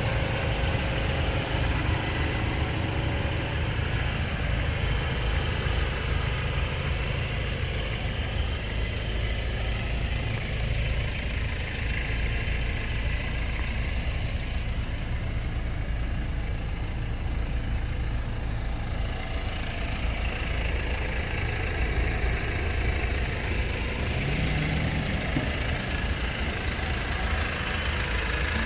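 Mercedes-Benz C300 coupe's 2.0-litre turbocharged four-cylinder engine idling steadily, low-pitched, with a short rising tone near the end.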